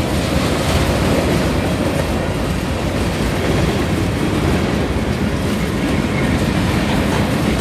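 BNSF manifest freight train's cars rolling past close by: a steady, loud noise of steel wheels running on the rails.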